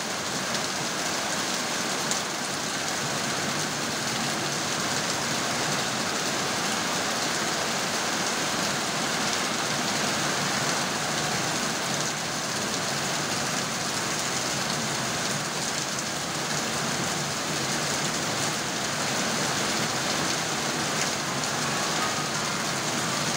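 Heavy rain falling steadily, an even, dense hiss that does not let up.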